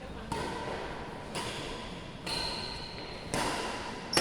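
Badminton rally: rackets striking the shuttlecock about once a second, each sharp hit ringing out in the large hall, with a high squeak near the middle.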